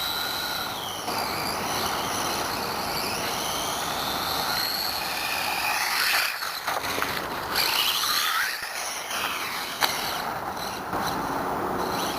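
Brushless electric motor of a WLtoys A979-B 1/18 RC monster truck whining, its pitch rising and falling as the truck speeds up and slows, over a steady hiss.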